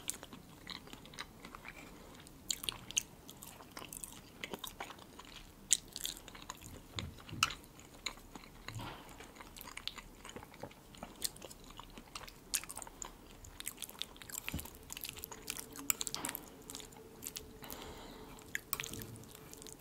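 Close-miked chewing of a soft layered salad, herring under a fur coat: wet mouth sounds with many scattered sharp clicks. Now and then a fork scrapes and taps on a ceramic plate as the next bite is picked up.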